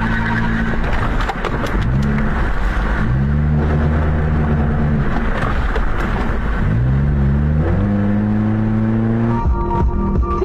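Car engine running under way with road noise. The engine note climbs twice as the car speeds up and holds steady in between. Music comes in near the end.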